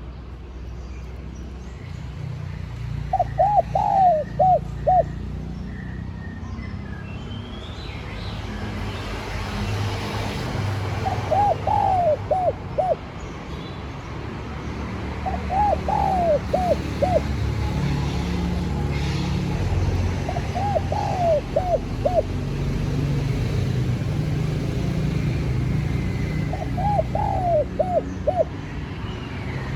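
Spotted dove cooing: five short phrases, each a quick run of hooked coos, spaced several seconds apart, over a steady low rumble.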